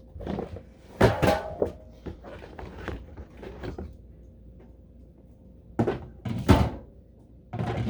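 Drink cans being handled and stacked in a small fridge: a series of knocks and thunks, the loudest about a second in and again past six seconds.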